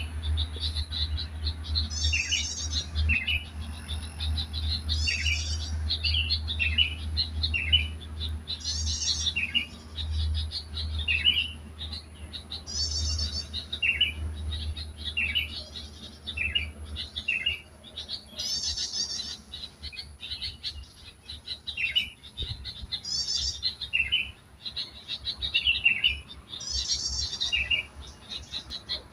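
A songbird singing, repeating the same phrase about every three to four seconds: a fast high trill followed by several short, lower, falling notes. A low steady rumble runs underneath until a little past the middle.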